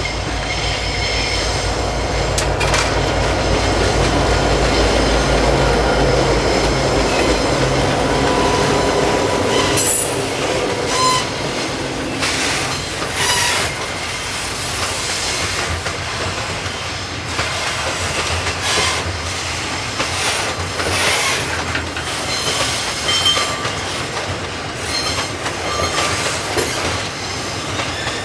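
A diesel-hauled ballast train passing on narrow-gauge track: the locomotive's engine hum for the first ten seconds or so, then the wagons rolling by with repeated wheel clicks over the rail joints and thin wheel squeals.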